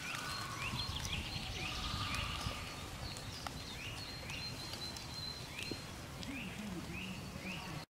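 Woodland ambience: a bird repeats a short rising call about twice a second, over a low rumble of background noise.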